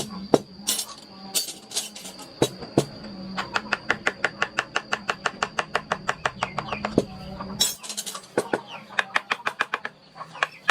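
Hand wood carving: a mallet tapping a carving chisel into wood. Scattered single taps at first, then a fast even run of about eight taps a second for roughly four seconds, then single taps again, over a faint steady high whine.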